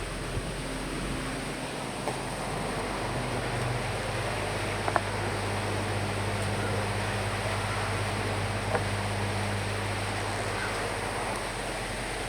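Steady rain and wind: an even hiss with a low steady hum beneath it and a couple of faint ticks, about five and nine seconds in.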